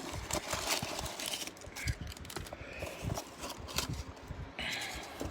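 Hands unpacking a cardboard shipping box and rummaging through packing peanuts, giving irregular rustling, crinkling and light taps.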